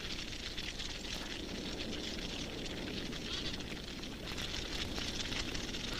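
Grass fire burning: dense, continuous crackling over a steady low rush of flames.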